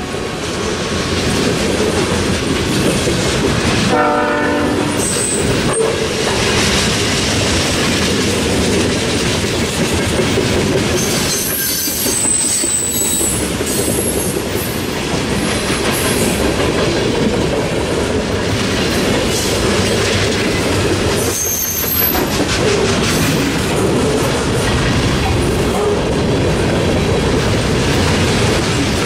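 A train rolling past close by, with steady wheel and rail noise and clickety-clack over the joints. The horn sounds briefly about four seconds in, and short high-pitched wheel squeals come a few times.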